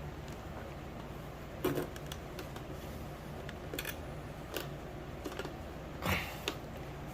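Light, scattered clicks and knocks of grow tent kit parts being handled during assembly, a few seconds apart, over a steady low hum.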